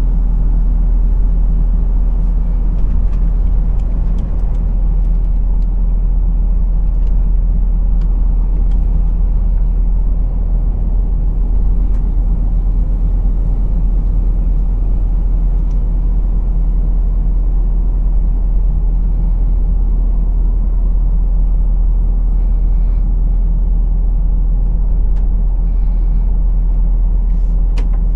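A truck's engine and road noise while driving: a steady, loud low drone that holds even throughout, with a few faint clicks.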